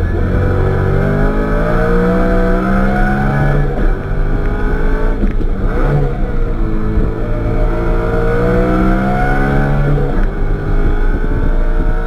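BMW E90 M3's 4.0-litre V8 engine heard from inside the cabin, revs climbing under hard acceleration. The pitch rises steadily, dips briefly about four to six seconds in and again about ten seconds in, then climbs again.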